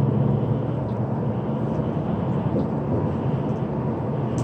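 Steady running noise inside a coach bus travelling at highway speed: low engine drone mixed with road and wind noise.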